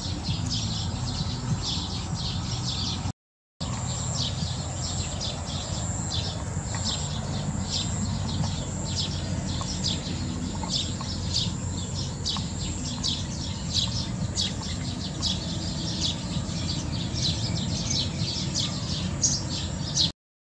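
Small birds chirping over and over, several short high chirps a second, over a steady high-pitched tone and a low rumble. The sound cuts out briefly about three seconds in.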